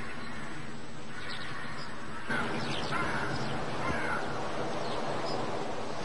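Birds calling over a steady outdoor background, with harsh, caw-like calls starting a little over two seconds in.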